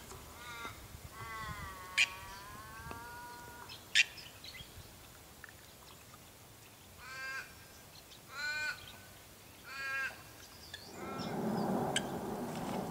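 Bird calls: a long wavering call about a second in, two sharp clicks, then three short calls a little over a second apart. Near the end a steady rushing noise comes up.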